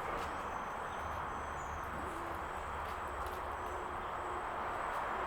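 Steady outdoor background noise, with a faint, thin, high steady tone and a few short, faint, higher tones.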